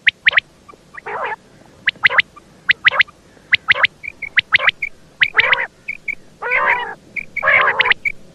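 Common quail calls, which the recording gives as a female's: short, sharp notes in quick pairs and triplets, with longer rasping calls in between that come more often toward the end.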